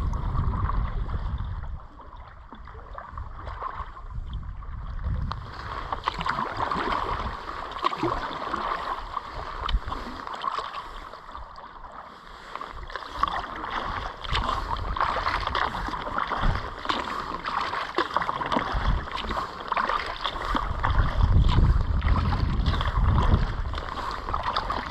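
Kayak paddling: paddle blades dipping and water splashing and dripping with each stroke, with wind rumbling on the microphone at the start and again near the end.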